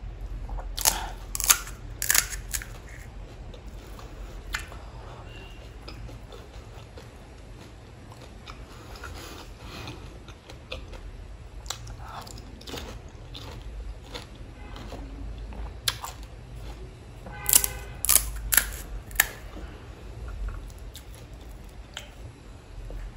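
Close-miked crunching and chewing of pani puri, the crisp fried hollow shells cracking between the teeth. Several sharp cracks come in the first few seconds and a quick run of them about eighteen seconds in, with softer chewing in between.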